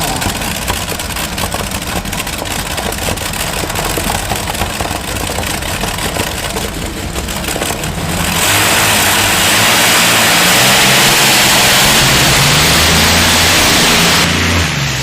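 Modified pulling tractor's twelve-cylinder engines running hard under load with a rough, crackling exhaust. About eight seconds in, the sound jumps louder and denser and holds for about six seconds, then drops off near the end.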